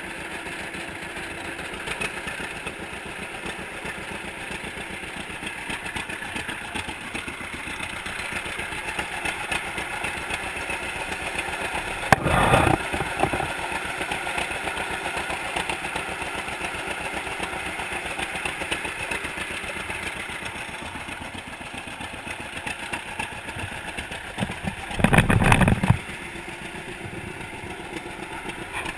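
1942 John Deere Model A's two-cylinder engine running steadily in a fast, even series of pops, soon after its first start. Twice a brief loud rush of noise covers it, about twelve seconds in and again near the end.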